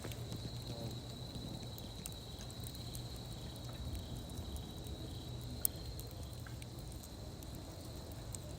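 Campfire crackling with scattered small pops and one sharp pop about halfway through, over a steady high insect trill.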